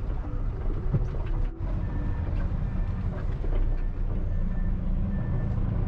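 Concrete mixer truck's diesel engine running with a steady low rumble, dipping briefly about a second and a half in.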